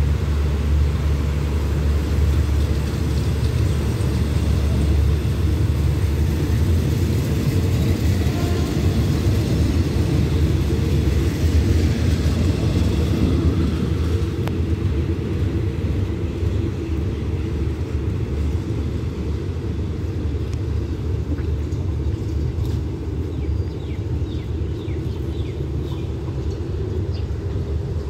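Passenger coaches of a departing express train rolling past on the rails: a steady low rumble that eases off from about halfway through as the train pulls away.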